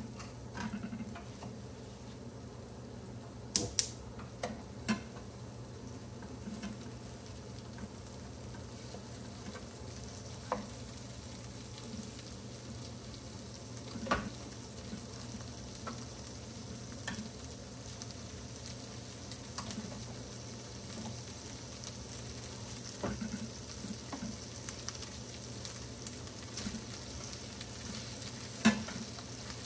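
Salmon and diced orange peel sizzling in a frying pan while cooked rice is scooped in and stirred with a wooden spatula. Scattered sharp knocks of the utensils against the pan and pot, two close together about three and a half seconds in and the loudest near the end, over a steady low hum.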